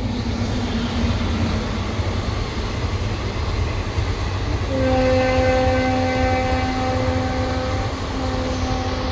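Train running with a steady low rumble; about halfway in, a train horn sounds, one long held blast with a short break near the end.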